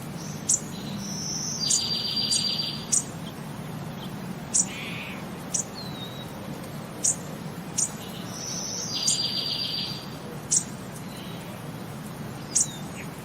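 A bird chirping: short, sharp, high chirps every second or so, and twice a rapid buzzy trill lasting about a second.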